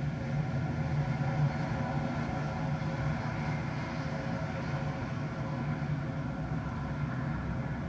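Jet airliner engines running with a steady low rumble and hum, with no rise or fall in pitch.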